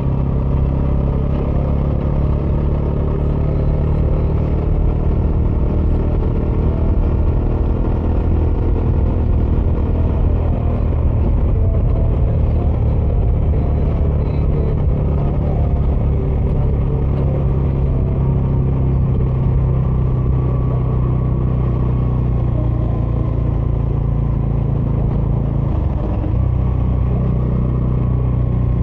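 Bajaj Dominar 400's single-cylinder engine running at a steady cruise through its stock dual exhaust while riding, with a brief dip in engine sound near the end.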